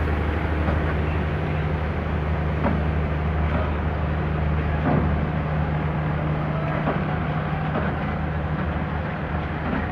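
Train rolling past on the rails, made up of flat wagons and a new EMD diesel-electric locomotive on its own bogies. A steady low engine drone runs under it, with a few faint knocks from the wheels.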